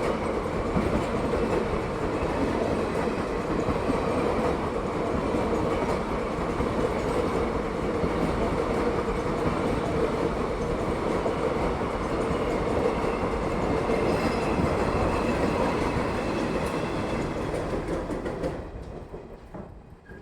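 Parcel train running along the track, its wheels rolling on the rails, with a steady hum under the rumble; the sound falls away near the end.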